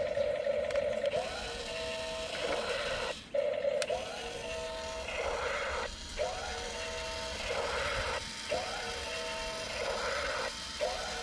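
A battery toy's electronic sound effect looping: a short pitched phrase followed by a noisy burst, repeating about every two and a quarter seconds.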